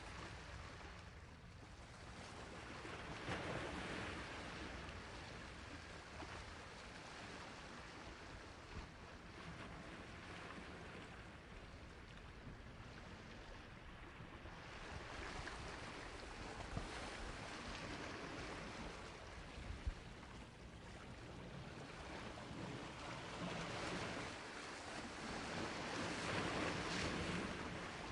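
Sea waves washing onto a shore, a steady rushing wash that swells louder about four seconds in and again near the end. Two short clicks stand out in the middle.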